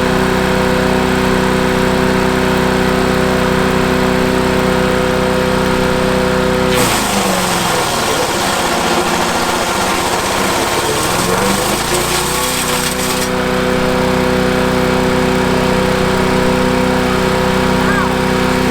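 Landworks mini wood chipper's 7 hp 212cc gas engine running steadily. About seven seconds in, a branch goes through the chipper: about six seconds of loud chipping noise while the engine bogs down in pitch under the load and then recovers to speed.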